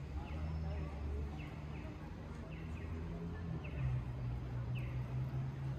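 Small birds chirping in short, falling notes every half second or so, over a steady low hum of street traffic.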